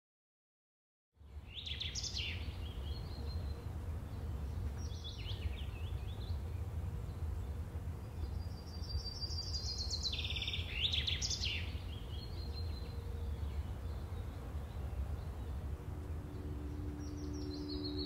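Outdoor ambience that starts about a second in: a steady low rumble with birds chirping in four short spells. A steady low ringing tone comes in near the end.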